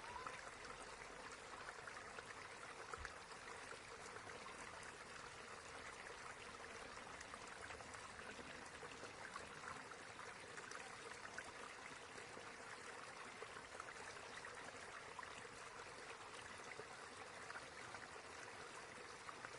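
A small stream flowing steadily, with a continuous babbling and trickling of water.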